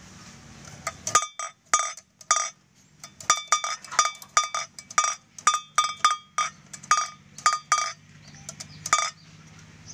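Bamboo otok-otok (kretekan) noisemaker on a kite clacking as its propeller turns: an irregular run of sharp, ringing knocks, about two or three a second, some in quick pairs, starting about a second in.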